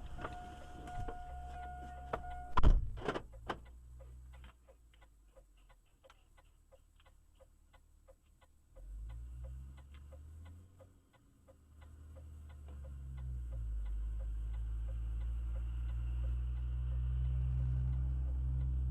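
Two steady beeping tones, then a loud knock about three seconds in, followed by even, rapid ticking, about three ticks a second, over a low rumble that grows steady in the second half.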